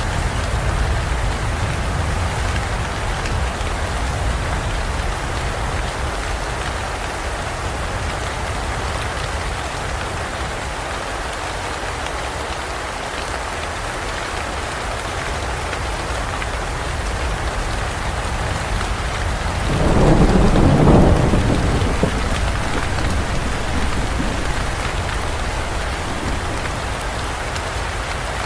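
Steady rainstorm downpour, with one roll of thunder about twenty seconds in that swells for a couple of seconds and then fades back into the rain.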